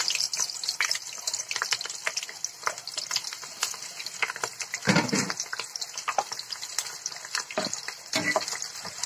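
Cubed onion sizzling and crackling in hot oil in a kadai, the hiss loudest at the start, just after the pieces go in, then easing off. There is a louder bump about halfway through, and a steel spoon stirring near the end.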